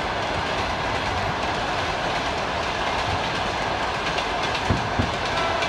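Steady noise of a train passing along the railway tracks. Near the end come two short, dull thumps from distant fireworks bursting.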